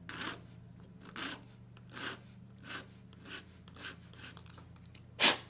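Small hand file rasping on a cut plastic bolster post of an N scale freight car, about seven short strokes dressing the stub flush. A louder, sharp knock near the end.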